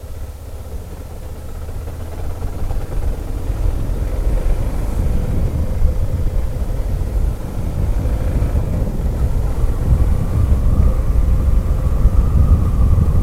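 Motorcycle riding on a mountain road: the engine running under heavy wind rumble on the microphone, getting louder over the first few seconds and then holding steady.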